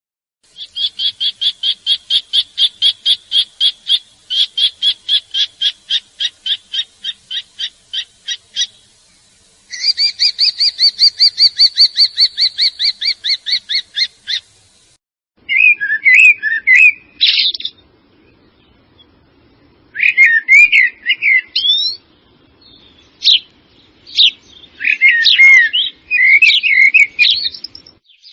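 Birds singing: first a long run of rapid high chirps at about five a second, then a faster, denser trill, then varied warbling phrases over a faint low hum.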